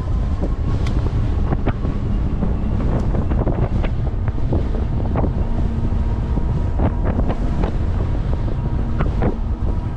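Strong headwind buffeting the microphone of a camera on a moving e-bike: a steady, heavy low rumble, with scattered small ticks and rattles.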